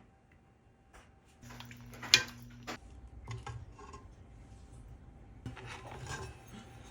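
Kitchen clatter of dishes and utensils being handled: scattered clicks and knocks, with one sharp clack about two seconds in.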